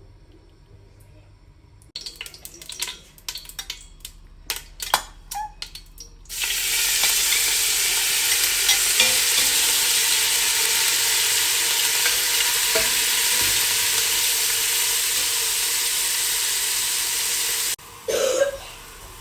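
Food frying in hot oil in a pan: a loud steady sizzle that starts suddenly and stops abruptly after about eleven seconds. Before it come a few seconds of scattered kitchen clicks and knocks, and a couple of knocks follow near the end.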